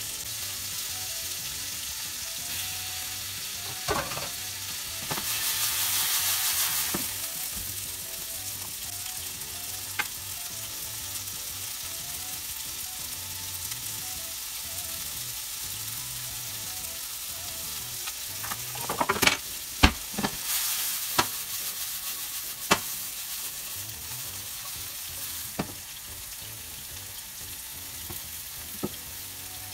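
Chicken and mushrooms sizzling steadily as they fry in a nonstick skillet, the sizzle swelling louder for a couple of seconds early on. Occasional sharp clacks of cooking utensils against the pans, with a cluster of them about two-thirds of the way through as the pan is stirred.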